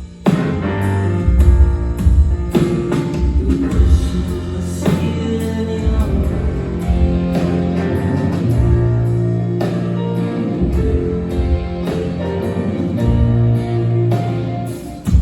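A rock band playing live and loud through a PA, with a drum kit keeping a steady beat under a bass line and guitar chords.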